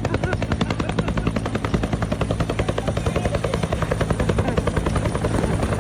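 Helicopter running: a rapid, steady rotor chop over a constant engine hum.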